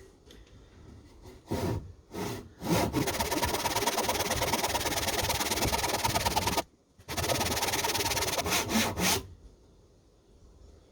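A saw cutting into the spotted gum handle of a splitting maul, the wedge slot (kerf) going into the handle's end. A couple of short starting strokes, then two long runs of steady rasping cutting with a short break between them, stopping near the end.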